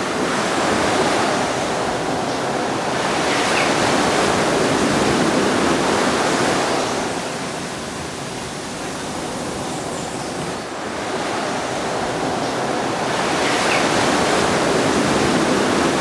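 Ocean surf, a steady wash of breaking waves that swells and eases in slow surges.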